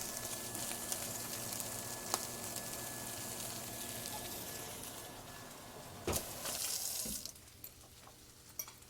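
Turkey bacon sizzling in a frying pan with a steady hiss that fades after about five seconds. A sharp click comes about six seconds in, with a short rush of noise, and then it is quieter.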